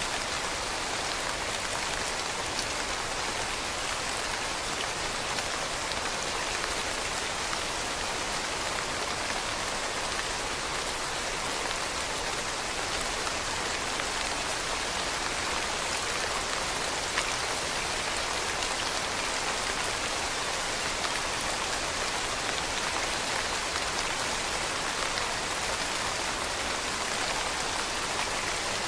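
Steady rain falling on leaves, a continuous even hiss of many small drop patters with no break or change.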